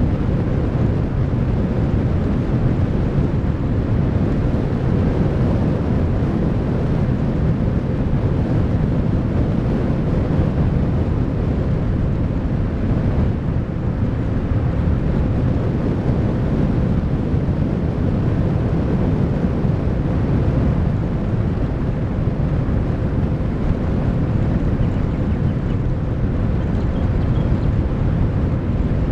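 Steady wind and road noise of a car driving slowly, picked up by a camera mounted on the car. The noise is loud and unbroken and mostly low-pitched, with a faint steady hum running through it.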